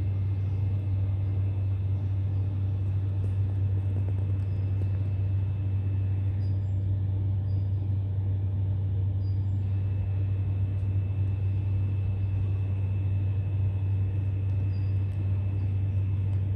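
A steady low hum, with a faint high whine that drops out for a few seconds in the middle.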